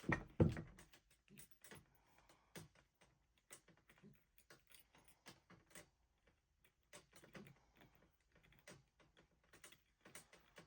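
Faint, irregular small clicks and taps of metal parts handled on a bench: the brush springs and brushes of a Delco starter motor being pried and worked into place with a bamboo stick. The two loudest knocks come right at the start.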